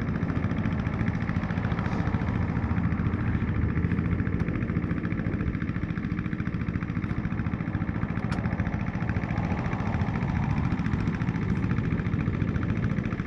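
BMW R1200 GS motorcycle's boxer-twin engine running steadily.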